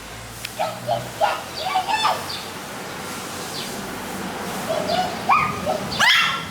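African grey parrot making a string of short chirps and whistles with quick pitch slides, a cluster in the first couple of seconds and a few more near the end.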